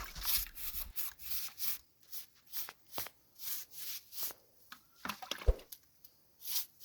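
Stiff old broom scrubbing wet mortar joints between clay bricks, short rasping strokes about twice a second, with a light knock about five and a half seconds in.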